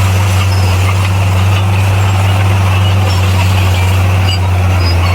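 Bulldozer's diesel engine running steadily with a constant low drone, no revving up or down.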